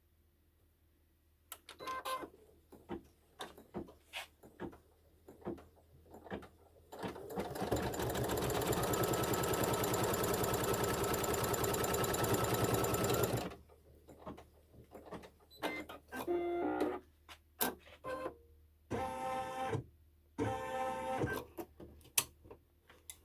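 Embroidery machine stitching a fabric border strip down in the hoop, running steadily for about six seconds before stopping abruptly. Clicks and fabric handling come before and after, with two short mechanical buzzes near the end.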